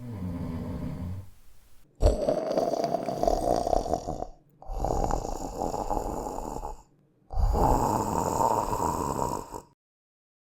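A sleeper snoring: a softer, lower snore at the start, then three loud snores of about two seconds each with short pauses between, each rising slightly in pitch.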